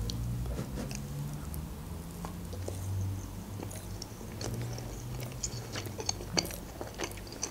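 Close-miked chewing of a soft toasted marshmallow, mouth closed, with scattered faint wet mouth clicks.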